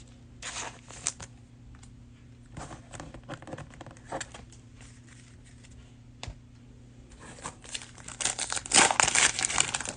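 Cellophane wrapper of a trading-card cello pack being crinkled and torn open: scattered crackles at first, then a dense, louder spell of crinkling over the last few seconds.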